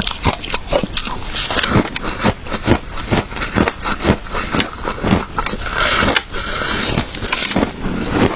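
A person chewing crunchy shaved ice close to the microphone, a steady run of crunches about two to three a second.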